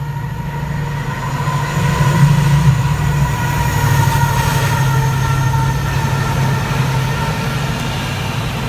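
Class 70 diesel freight locomotive passing, its engine's steady low drone with a high whine above it, loudest about two to three seconds in and easing off after.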